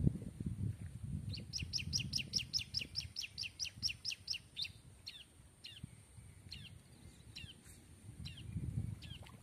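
A bird singing a fast trill of about sixteen high, downslurred notes, roughly five a second, then single similar notes about every half second. Low rumble sits underneath throughout.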